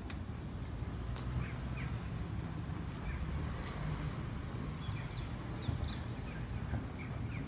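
Small birds chirping in short, scattered calls over a steady low outdoor rumble, with a couple of faint clicks.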